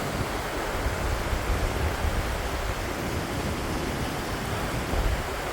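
Steady rush of water as a freshly broken-open estuary mouth pours out into the surf, with a gusty low rumble of wind on the microphone.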